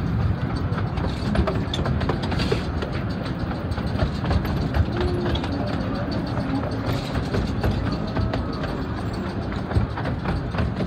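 Carriages of a 15-inch gauge miniature railway running along the track: a steady rumble of wheels with a constant rattle of small clicks.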